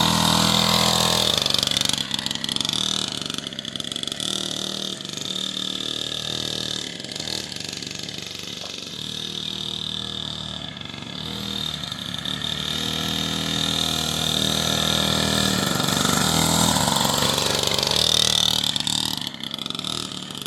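Small dirt bike engine running as it is ridden around, growing louder as the bike comes near at the start and again near the end, and fainter in between.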